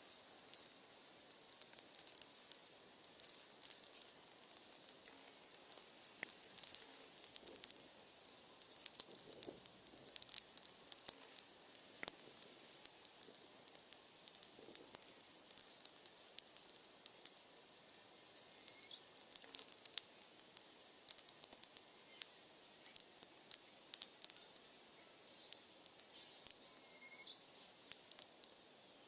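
Wood fire crackling: a steady run of small, irregular sharp pops and ticks from burning firewood.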